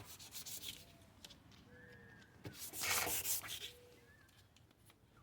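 Sandpaper rubbed by hand on a plastic headlight lens, in two spells of strokes: a short one at the start and a longer, louder one about three seconds in.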